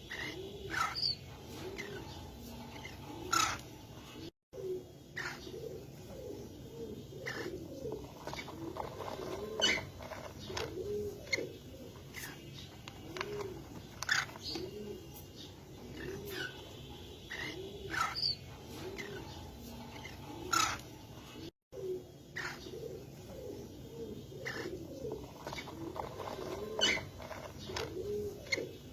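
Domestic pigeons cooing: many short, rounded low coos overlapping one after another, with sharp high chirps now and then.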